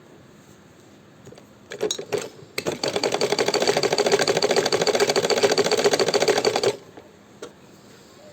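Hand-operated sewing machine: a few clicks as it gets going, then about four seconds of rapid, even stitching that stops suddenly.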